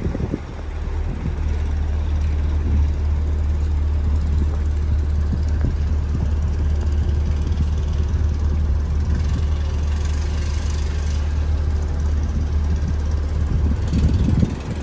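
Tour boat's engine running steadily, a low even drone heard from on board.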